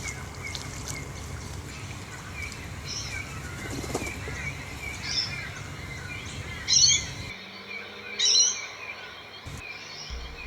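Birds calling: a steady run of soft, evenly repeated peeps, with louder, sharper calls a few times, the loudest two about two-thirds and four-fifths of the way through.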